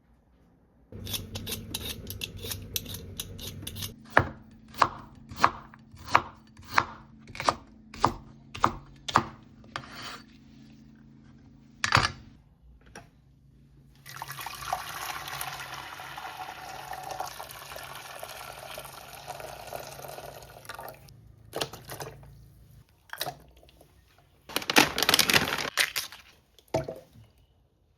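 Kitchen knife chopping on a cutting board: light quick taps, then about ten firm, evenly paced strokes, one more than a second apart. Water runs steadily for several seconds, then a few clatters of kitchenware near the end.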